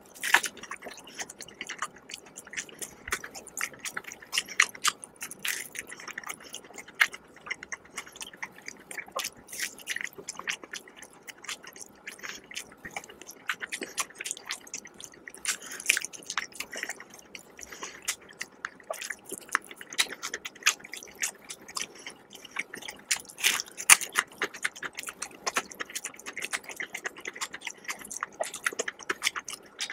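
Close-up chewing and biting of crispy fried chicken, with many irregular sharp crackles of the breaded skin and wet mouth sounds.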